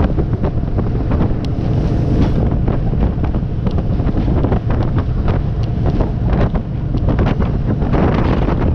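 Wind buffeting the microphone aboard a Christina 25 classic motorboat under way, over the steady low rumble of the boat and the water rushing past her hull.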